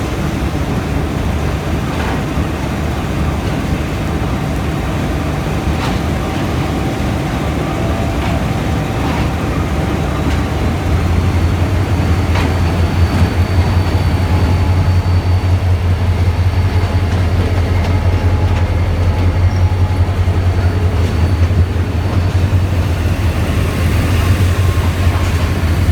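Pakistan Railways GMU-30 diesel-electric locomotive heading an arriving passenger train. Its low engine rumble grows much louder about ten seconds in as it draws close, with a few sharp clicks along the way.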